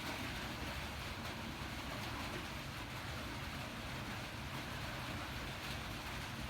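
Rain falling steadily on a metal-shingled roof: an even hiss with no single drips or knocks standing out.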